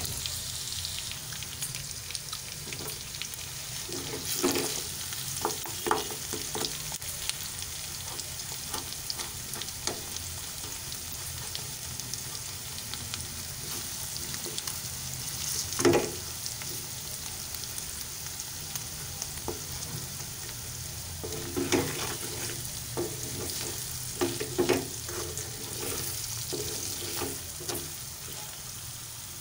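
Onions and pieces of meat sizzling in oil in a metal pan, stirred with a wooden spoon that knocks and scrapes against the pan now and then, the sharpest knock about halfway through.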